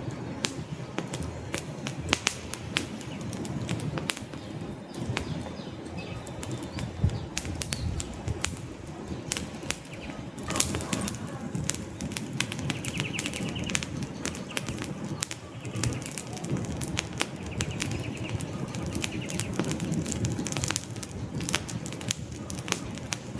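Wood fire in a fireplace, logs crackling with many irregular sharp pops over a steady low rumble of flame, and a louder pop about ten seconds in.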